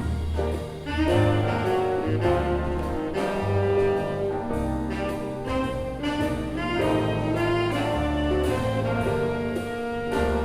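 A jazz big band of young players performing a swing tune: saxophones and brass playing full ensemble over a moving bass line.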